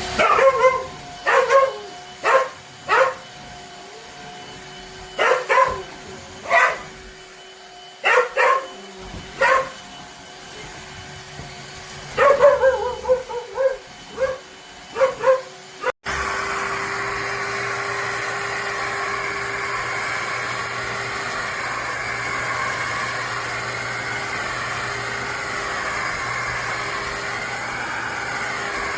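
A dog barking in short sharp barks, about fifteen in clusters, over a faint steady hum. About sixteen seconds in, this cuts abruptly to the Shark HydroVac wet-dry vacuum running steadily.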